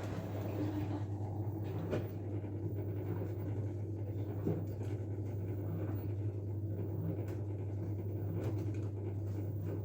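LG F12A8ND washing machine running partway into its Cotton Eco 40 program. It gives a steady low hum with a watery, rushing noise over it and a couple of faint clicks. The hum switches on right at the start and holds level throughout.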